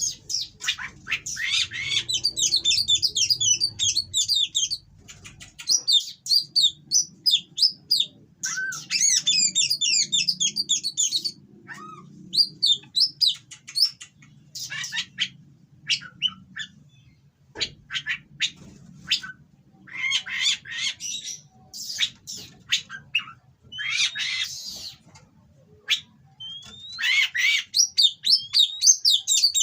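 Oriental magpie-robin (kacer) singing loud, harsh song: runs of rapid, quickly repeated rising notes lasting a few seconds each, broken up by short, sharp calls and squawks.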